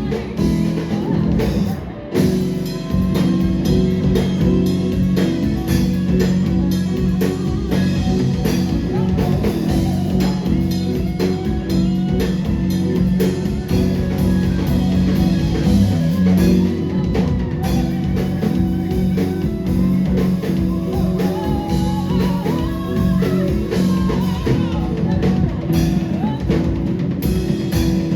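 Live rock band playing a song at full volume: drum kit and guitars, continuous and dense.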